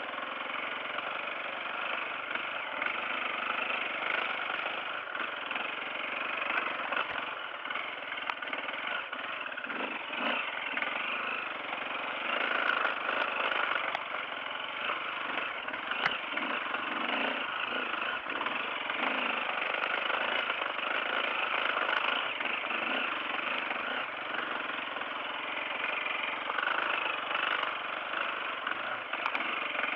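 Off-road dirt bike engine running steadily under way.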